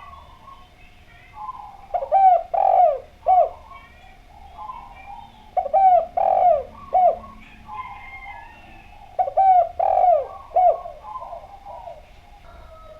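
Spotted dove (derkuku) singing: three loud phrases of short, falling coos, each about three and a half seconds apart, with softer coos in between.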